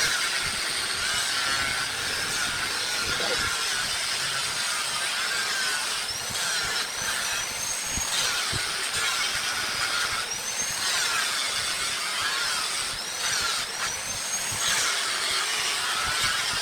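Power tool cutting wood: a steady, dense hiss with a high whine that rises and falls in pitch several times as the tool is loaded and eased off.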